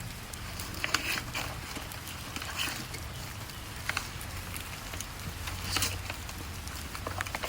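Crockery being unboxed by hand: scattered rustles of packaging and light taps, over a faint steady low hum.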